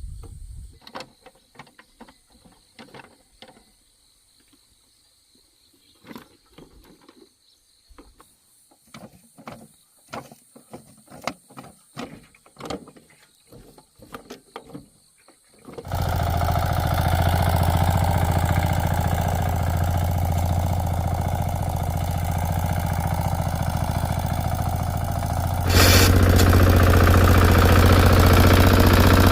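Scattered light clicks and knocks, then about halfway through a small engine starts abruptly and runs steadily with an even low hum. It steps up louder about three seconds before the end.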